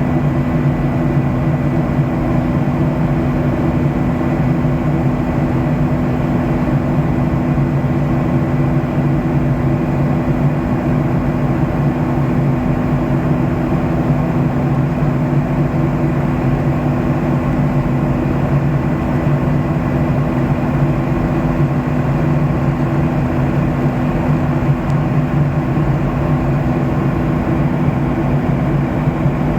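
Steady cabin drone of a Boeing 737-700 in the climb: the CFM56-7B turbofans' low hum with several steady tones under an even rush of airflow, heard from inside the cabin.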